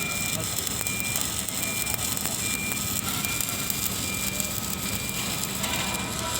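Electric arc welding on galvanized steel pipe, the arc crackling steadily. A reversing alarm on construction equipment beeps evenly, a little more than once a second.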